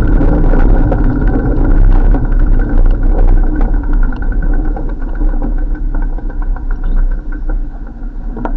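A motor vehicle's engine running close by, with steady engine tones over a low rumble, slowly growing quieter toward the end.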